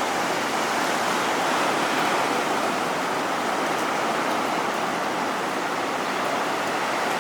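Steady rushing of large surf breaking and washing in, swell raised by a typhoon.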